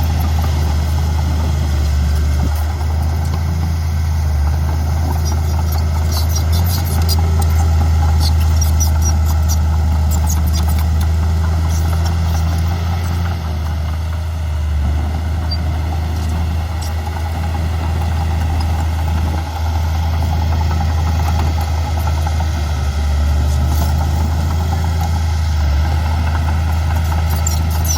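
Heavy diesel earthmoving machinery running steadily with a deep, even engine hum. A run of faint clicks and rattles comes through between about six and ten seconds in.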